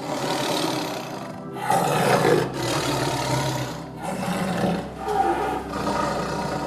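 Big cat roaring and growling in a run of rough calls, each about a second long with short breaks between.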